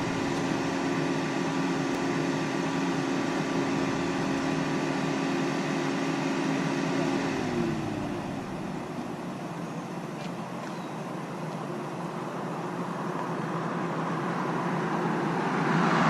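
Motor vehicle running with a steady hum whose pitch drops about halfway through, followed by road traffic noise that grows louder near the end.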